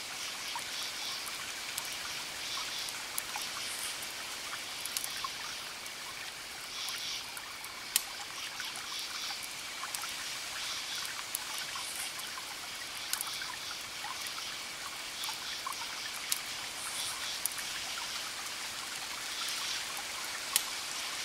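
Crackling wood fire: a steady hissing crackle with a few sharp pops, about three standing out, over a soft, repeated high chirping in the background.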